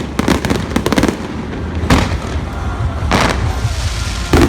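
Fireworks display: aerial shells bursting with bangs and crackling. There is a dense rattle of crackles in the first second, further bursts about two and about three seconds in, and a loud bang near the end.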